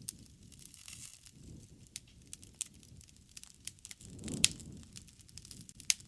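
Wood campfire crackling, with scattered sharp pops over a low rushing of flame. The rushing swells about four seconds in, around the loudest pop, and another sharp pop comes near the end.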